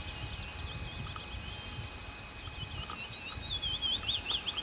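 A songbird singing a fast, warbling string of short twisting notes, busiest near the end, over a low steady rumble.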